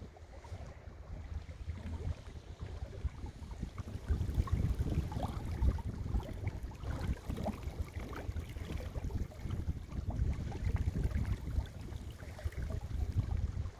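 Wind buffeting the microphone over water rushing and splashing along the hull of a small sailboat under way, in uneven gusts.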